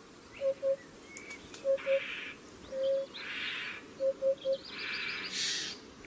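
A bird giving short, low hooting notes in groups of two and three, with a single longer note in the middle, over a rural background. Brief bursts of hiss sound between the groups.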